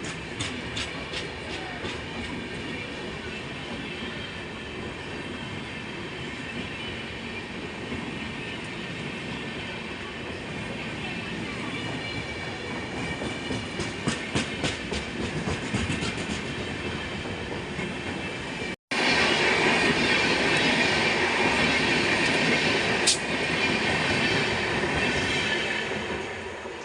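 Indian Railways express passenger train running past, a steady rumble with its wheels clicking over the rail joints in quick groups. The sound cuts out for an instant about 19 seconds in and comes back louder, then eases off near the end.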